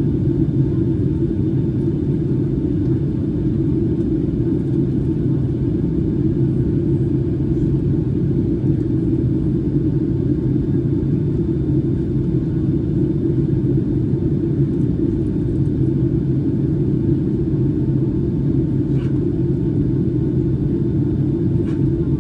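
Steady low drone inside the cabin of a Boeing 757-300 in flight: engine and airflow noise heard from a window seat.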